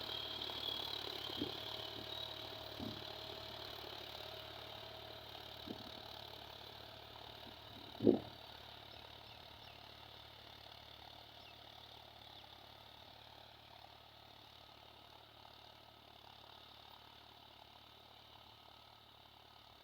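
Power tiller's diesel engine running faintly and steadily, slowly fading, with a few light knocks and one sharp knock about eight seconds in.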